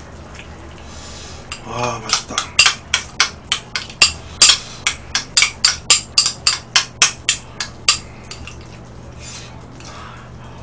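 Close-miked eating noises, mouth smacks as food is chewed: a run of loud, sharp wet clicks about three a second, starting about two seconds in and stopping about eight seconds in.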